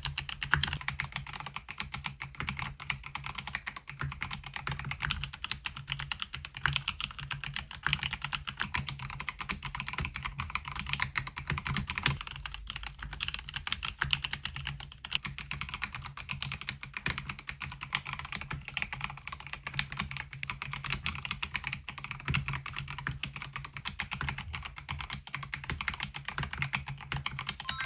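Steady, fast typing on a MelGeek Mojo68 mechanical keyboard with Gateron Brown switches, a continuous stream of key clacks.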